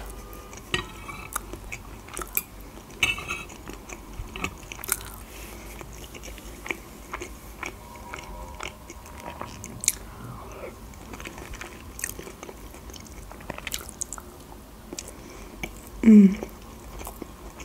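Close-up chewing of a soft meat cutlet with green peas: wet mouth clicks and smacks scattered throughout. A short hummed voice sound comes near the end.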